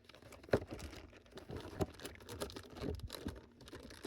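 Hands handling small items and packaging on a table: scattered light clicks and taps with soft rustling, the sharpest about half a second in and again just under two seconds in.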